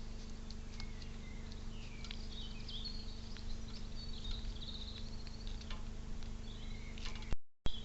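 Small birds chirping and twittering, with scattered sharp clicks over a steady low hum; the sound cuts out completely for a moment near the end.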